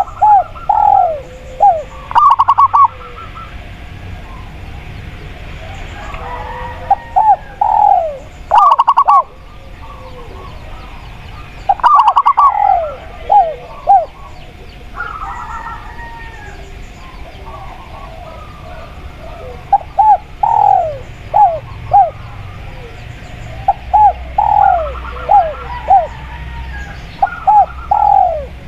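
Spotted dove and zebra dove cooing over and over: short groups of quick notes alternating with falling coos. Faint chirps of other birds sound behind them.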